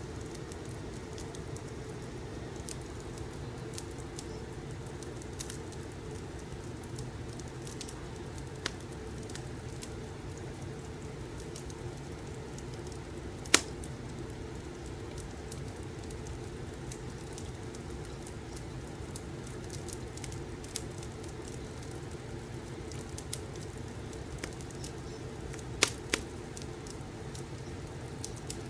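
Wood fire in a fireplace crackling: a steady low rumble with scattered sharp pops, one loud pop about halfway through and two more close together near the end.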